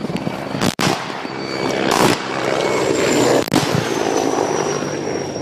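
Attack helicopter running overhead amid three sharp blasts about a second and a half apart, the loudest about two seconds in. A high whine falls slightly in pitch toward the end.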